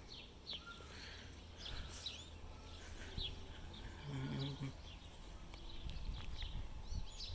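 Small birds chirping and twittering in quick, scattered calls, over a faint low steady rumble.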